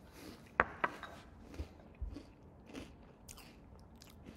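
A mouthful of Cap'n Crunch Halloween cereal in milk being chewed: two sharp crunches just under a second in, then softer crunches about every half second.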